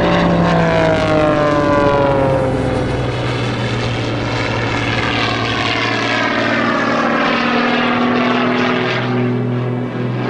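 Pitts Special S-2S aerobatic biplane in flight: its six-cylinder Lycoming engine and propeller running loudly. The engine note falls in pitch over the first few seconds, then holds a steady drone with shifting overtones.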